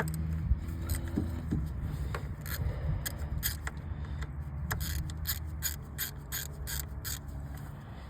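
Repeated short scraping strokes, coming about three a second in the second half, over a steady low hum.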